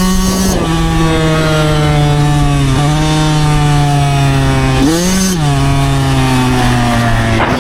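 2009 Yamaha YZ125 125cc two-stroke dirt bike engine running under way, with its buzz heard from the rider's helmet. The pitch drops sharply about half a second in and again about five seconds in, and sags slowly in between.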